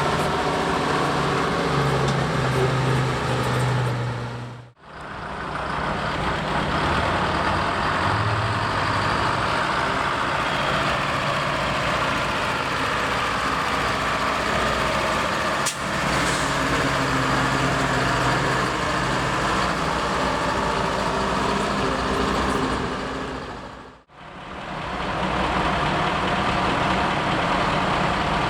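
Vintage Krupp truck engines running, with low steady engine notes. The sound fades out and back in twice, about 5 and 24 seconds in, between clips.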